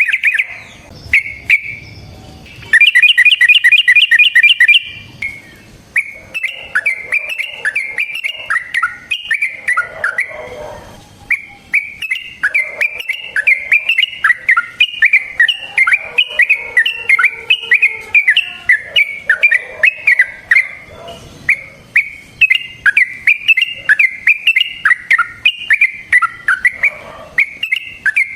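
Yellow-vented bulbul (trucukan) singing. A loud, rapid trill comes about three seconds in, followed by a long unbroken run of quick, bubbling chattering phrases.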